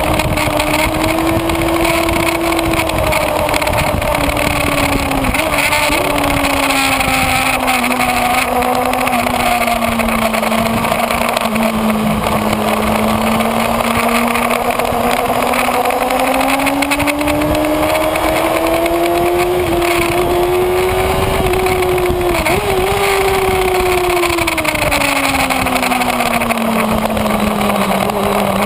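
Kawasaki Ninja ZX-6R inline-four engine running hard at speed, over a constant rush of wind. The engine note sinks slowly, then climbs back up, with a brief jump about two-thirds of the way through before it falls again near the end.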